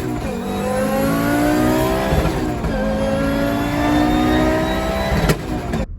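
Audi S1 Pikes Peak's turbocharged 2.2-litre five-cylinder engine accelerating hard from the start. It revs up through one gear, drops back at a gear change about two seconds in, then climbs again through the next gear. A sharp crack comes near the end.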